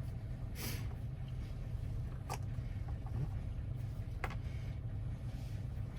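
A few light, sharp clicks from small metal parts of a Toyota door lock cylinder being handled, over a steady low hum.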